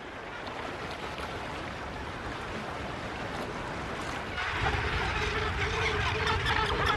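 Sea wash, then from about four and a half seconds a louder, busier din of a Cape gannet breeding colony calling.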